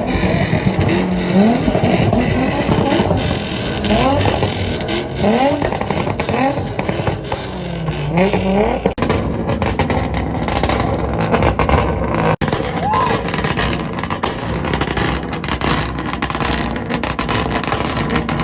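Car engine revved in repeated quick blips, each a short rising whine. In the second half come many sharp cracks.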